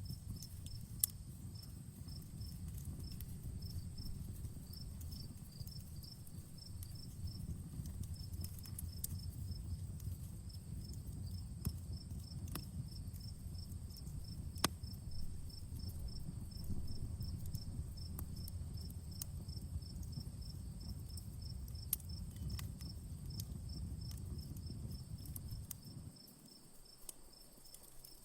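Campfire crackling, with a handful of sharp pops and a low rumble that drops away near the end, while crickets chirp steadily in rapid pulses throughout.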